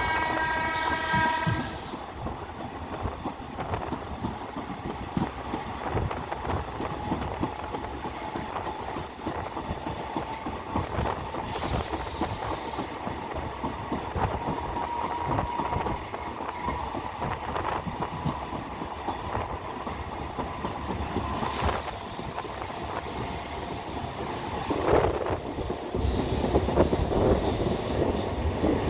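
A train horn sounds for about two seconds at the start, then a moving train runs on with a steady rumble and wheels clicking over the rail joints.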